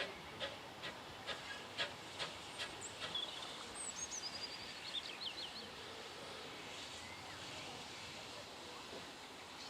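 Train wheels clicking over rail joints, about two or three clicks a second, fading out about three seconds in. Then a small bird chirps briefly over a quiet outdoor background.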